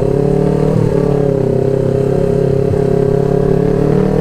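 Motorcycle with a racing exhaust running under way after pulling off, its note mostly steady with a short break in pitch about a second in.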